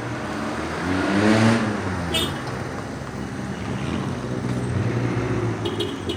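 A motor vehicle passing close by, its engine note rising and falling and loudest about a second in, over steady traffic noise.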